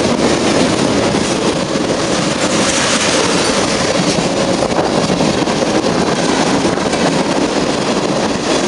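Train cars rolling past close by: a steady, loud rumble of steel wheels on rail with occasional clacks.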